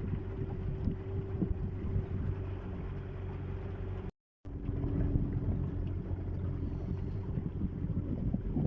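A small boat's outboard motor running steadily. There is a short gap about four seconds in, and after it the motor's tone is a little lower.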